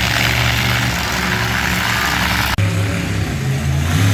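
Monster truck engine running loudly, with a steady low drone under a broad roar. The sound breaks off abruptly about two and a half seconds in and resumes at once.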